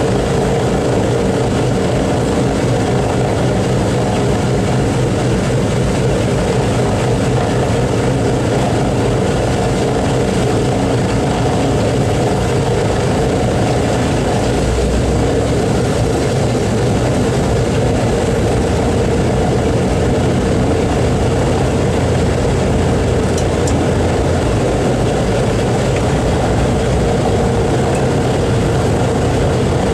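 Boeing B-29 Superfortress's four Wright R-3350 radial engines running steadily with propellers turning, a deep continuous drone.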